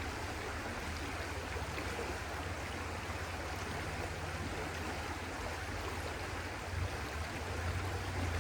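Stream water running steadily, with a low rumble beneath it that swells slightly near the end.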